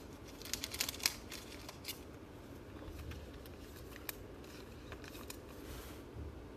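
Trading card packs being opened and cards handled: faint crinkling and sharp little clicks, with a cluster of them about half a second to a second in and then scattered single ticks.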